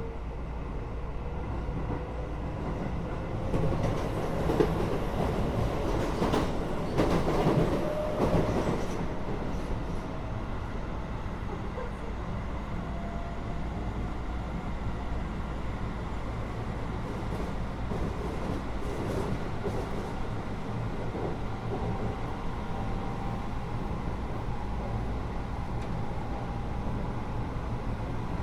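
Keio 8000 series train running, heard inside the car above its Hitachi GTO-VVVF main controller: steady rumble of wheels and motors with thin inverter and motor tones slowly rising in pitch. A louder stretch of clattering and rattling comes from about four to nine seconds in.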